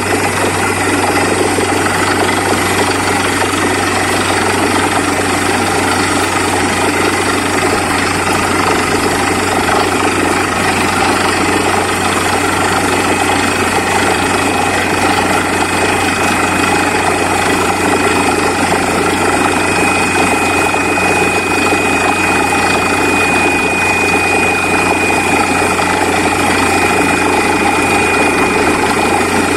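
Borewell drilling rig running steadily with a loud, even machine drone and a strong low hum. A thin high whine comes in about halfway through and holds.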